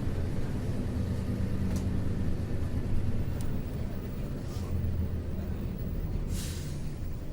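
Isuzu U-LV224N bus's 6QB2 diesel engine heard from inside the cabin: a steady low drone while the bus is underway. Several short hisses break in, the longest about six seconds in.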